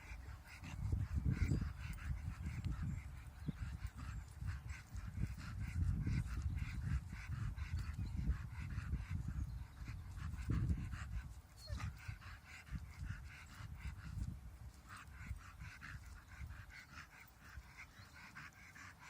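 A dog making weird rapid huffing noises in quick pulses over a low rumble, louder in the first half and tapering off toward the end.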